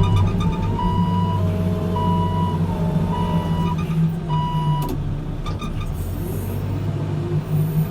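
Backhoe loader's diesel engine running steadily, with a reversing alarm beeping about once a second until about five seconds in, then stopping; a few knocks follow.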